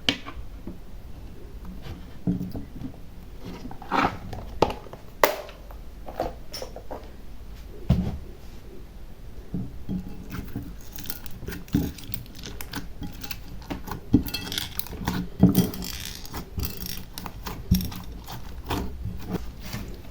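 Small hard trinkets and charms clicking, tapping and clattering as they are handled and dropped into a slime container, at an irregular pace with a few louder knocks.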